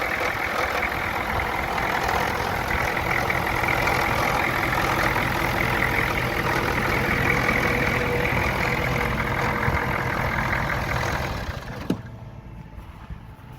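Ford F-250 pickup's diesel V8 idling steadily, then shutting off near the end, followed by a single sharp click.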